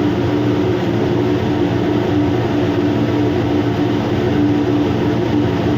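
Steady machinery hum, an unchanging drone with a constant low tone and no breaks or changes.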